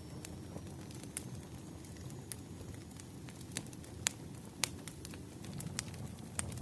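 Firewood burning, with scattered sharp crackles and pops over a low, steady rumble of flame.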